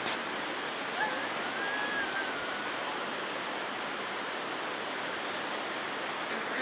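Steady rushing hiss of a waterfall, falling water pouring without a break. About a second in, a faint thin wavering whistle-like note rises and falls for under two seconds.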